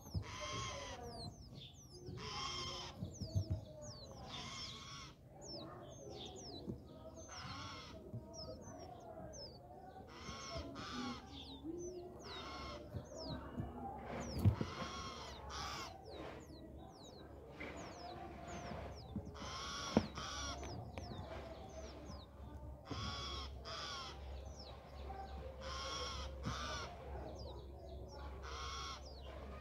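Birds calling: a series of short, harsh calls about every one to three seconds, with many thin, high, falling chirps between them. A low steady hum runs underneath, and there are two sharp knocks midway.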